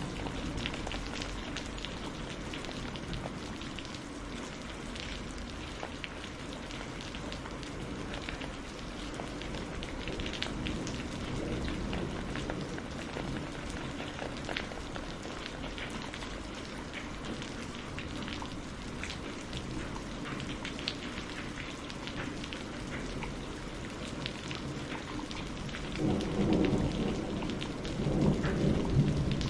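Steady rain falling, with many fine drop ticks, and a low roll of thunder rumbling in for the last few seconds.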